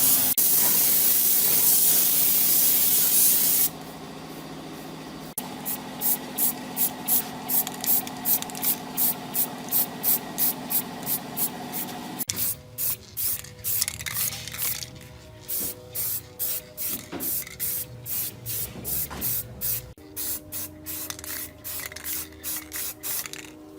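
A loud, steady spraying hiss, as from an aerosol spray can, that cuts off about four seconds in. After it comes background music with a steady beat.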